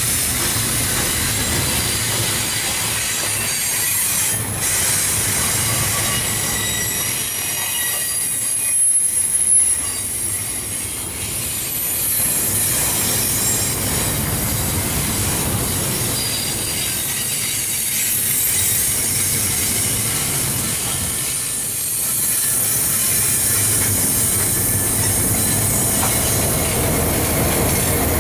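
Loaded double-stack container well cars of a garbage train rolling past, with a steady rumble and high, thin wheel squeal. The squeal swells loudest about nine seconds in.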